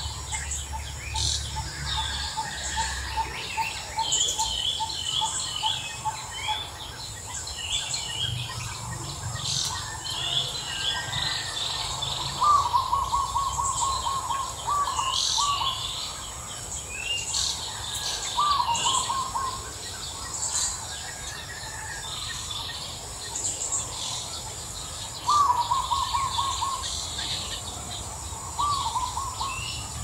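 Several songbirds calling and singing together. Near the start a bird repeats a short note about three times a second, later a bird gives a quick rapid trill five times, and higher chirps come between, over a steady high-pitched tone.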